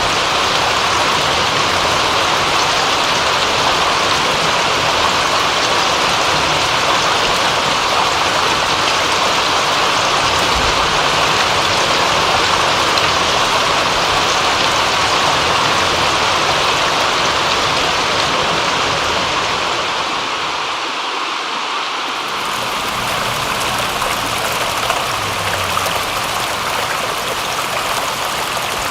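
Steady rain, an even hiss of falling water. About two-thirds through it dips slightly and changes into a similar continuous rush of flowing water.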